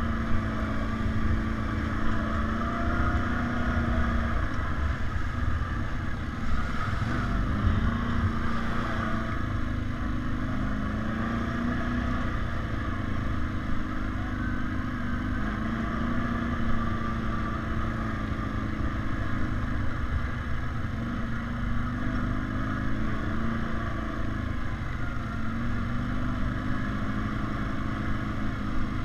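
ATV engine running steadily while riding, its pitch drifting up and down a little with the throttle, over a continuous low rumble.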